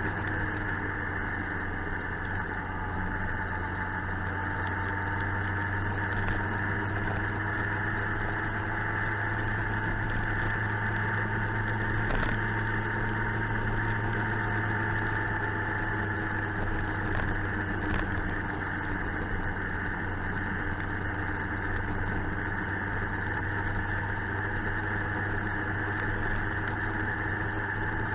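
Suzuki GSX-R 1000 inline-four engine running steadily at an even, nearly unchanging engine speed while the motorcycle is ridden.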